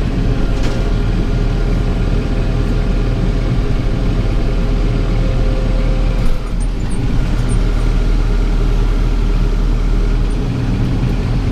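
Tractor engine running steadily under load while pulling a round baler through windrowed hay. There is a brief knock about six seconds in.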